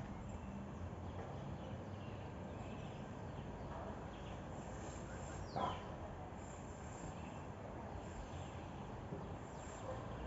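A single short bird call sweeping downward in pitch about halfway through, over a steady outdoor background hiss.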